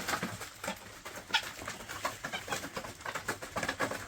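Chickens clucking softly as they feed on freshly thrown chicken scratch, with a dense scatter of short pecking taps and a brief higher call about a second in.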